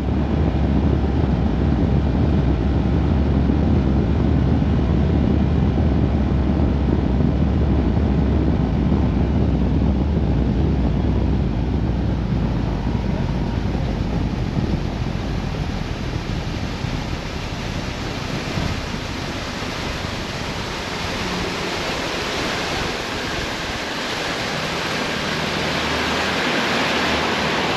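Steady rushing of wind and water, as from a boat running across a lake. A deep rumble fills the first half, then gives way to a brighter hiss.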